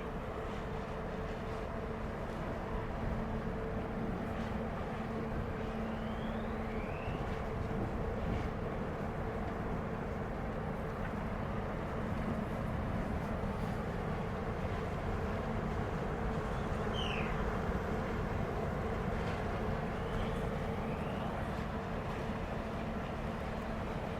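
A ferry's engines and machinery running with a steady drone and low hum, over a constant rumble. A few short, high falling chirps are heard briefly over it.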